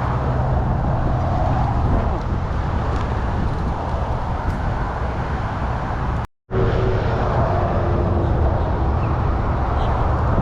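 Steady wind rumble and road traffic noise picked up by a bike-mounted action camera while riding. The sound cuts out completely for a moment about six seconds in, then resumes.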